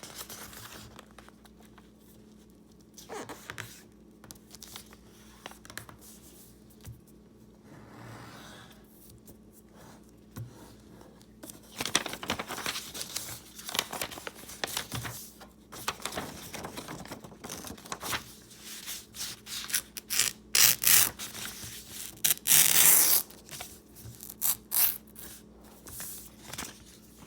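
Sheet of printer paper being torn by hand along a crease to remove the excess strip: after a quiet stretch with faint paper handling, a series of rasping rips starts about halfway through, the longest and loudest near the end, with paper rustling in between.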